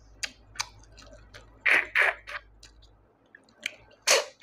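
A person chewing and sucking snails from a curry close to the microphone: irregular wet mouth noises, with two louder sucks about halfway through and another near the end.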